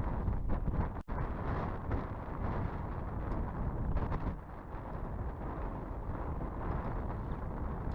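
Strong wind buffeting the microphone with a steady low rumble, in 15 to 20 mph winds with gusts. The sound cuts out for an instant about a second in.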